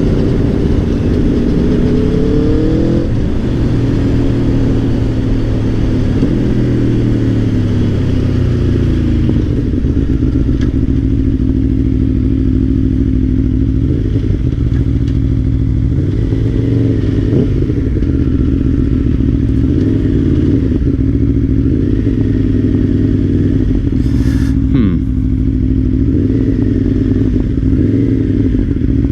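Aprilia Tuono V4 Factory's V4 engine heard from on board while riding: the revs climb over the first three seconds, drop back, then hold steady at a cruising pitch.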